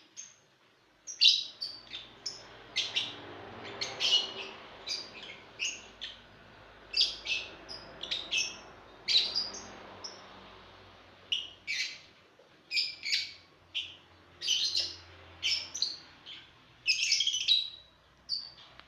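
Lovebirds chirping: many short, shrill calls in quick, irregular succession, often overlapping.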